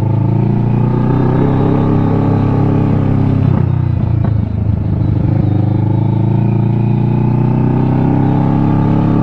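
Kawasaki Ninja 650's parallel-twin engine running while riding, with a steady low hum; about three and a half seconds in the pitch drops and breaks up briefly, as when the throttle is rolled off or a gear is shifted, then steadies again.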